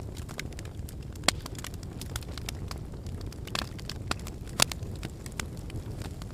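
Wood fire burning in a fireplace, with a steady low rumble and frequent crackles. Two sharp pops stand out, one just over a second in and one past the middle.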